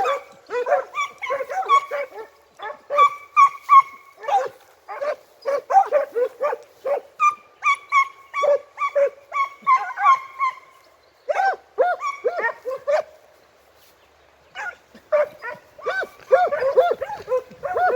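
A pack of segugio hounds giving tongue while working a hare's scent: rapid, overlapping yelps and bays from several dogs. They pause briefly after the middle, then pick up again.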